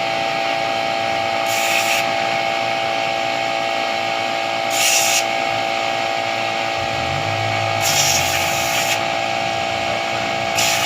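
Four short bursts of spraying hiss, each about half a second to a second long, over a steady hum. A motorcycle cylinder head is being sprayed clean with gasoline.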